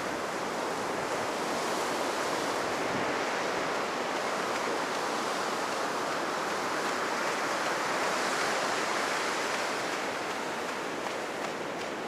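Ocean surf breaking and rushing up the beach, a continuous roar of water that swells to its loudest about two-thirds of the way through. The waves are running high in the wake of a typhoon.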